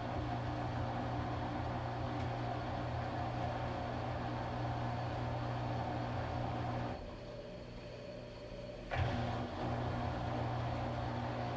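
Washing machine running with a steady motor hum. About seven seconds in, the hum drops out for about two seconds, then comes back with a short thump.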